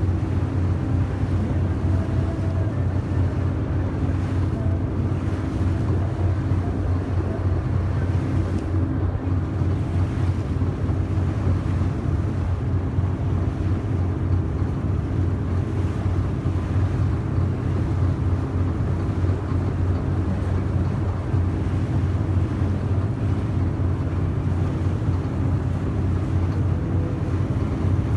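Yakatabune houseboat's engine running steadily under way, a low even drone with the rush of water and wind around the boat.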